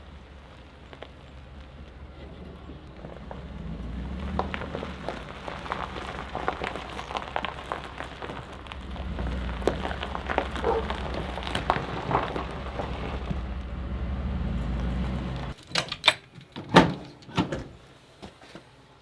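Pickup truck driving on a rough dirt road, a steady low rumble with crackling and rattling that cuts off suddenly about three-quarters of the way through. A few sharp loud knocks and clatters follow near the end.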